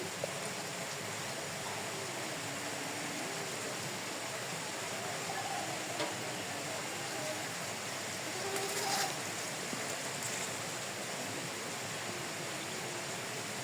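Steady rushing noise with faint distant voices, and a brief louder rustle about eight and a half seconds in.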